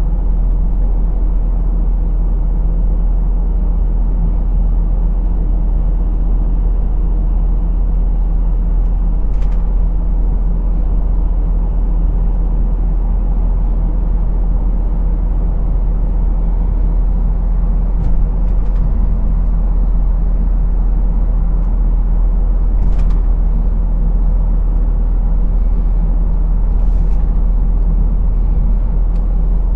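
Lorry engine running with a steady low drone, heard from the driver's cab, with a few brief hisses: about a third of the way in, around the middle and twice near the end.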